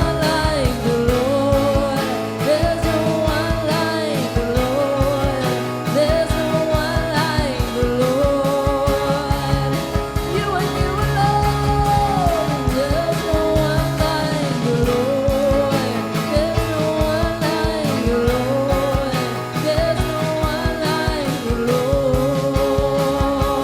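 Live worship band playing with a steady drum beat, under a melody line that holds its notes with a wavering vibrato.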